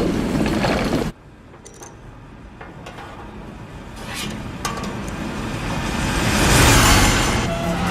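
Dense mechanical noise that cuts off suddenly about a second in, then a quieter clatter with a few sharp clicks that swells steadily louder toward the end.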